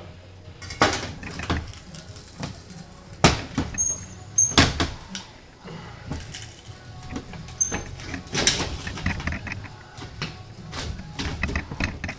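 Sheet-metal panel and homemade pan brake being handled: irregular metallic clanks, knocks and scrapes, a few of them loud.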